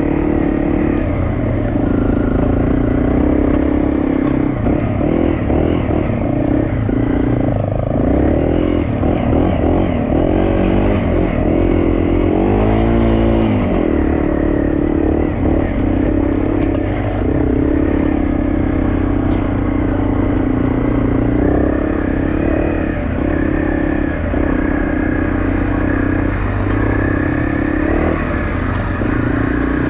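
Off-road motorcycle engine running as the bike rides along, a steady drone with the pitch rising and falling with the throttle around the middle. A hiss comes in about three quarters of the way through.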